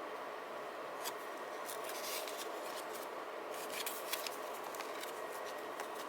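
Paper and sticker crafting sounds: a run of short, crisp scratches and clicks, like sticker backing and paper being cut, peeled or rubbed down, over a steady low hiss.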